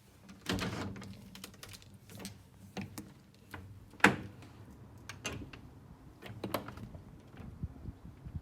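Irregular light clicks and taps, with a duller knock about half a second in and one sharp click about four seconds in.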